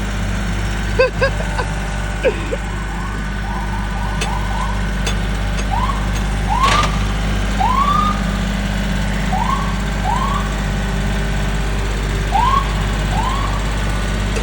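Tractor engine idling steadily. Over it, short chirps rise and then fall in pitch, often in pairs, and a few clicks sound in the first seconds.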